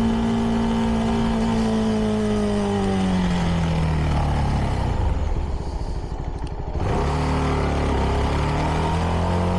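CFMoto 300NK's single-cylinder engine through its stock exhaust, ridden steadily at first. The pitch falls for a few seconds as the throttle is rolled off, then about seven seconds in it picks up again and rises as the bike accelerates.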